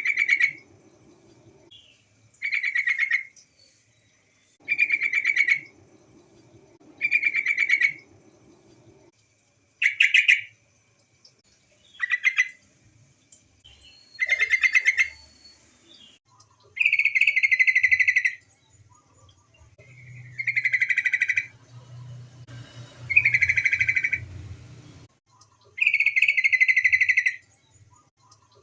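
Female yellow-vented bulbul (trucukan) calling over and over: about a dozen short, fast chattering phrases, roughly one every two seconds, the later ones a little longer. It is a female's call to males, used as a lure to get caged bulbuls singing.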